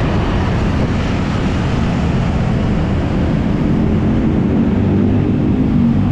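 Carburetted Honda BeAT scooter riding along: wind rush on the dashboard-mounted action camera over the hum of its small single-cylinder engine, the engine note growing clearer and a little louder about halfway through.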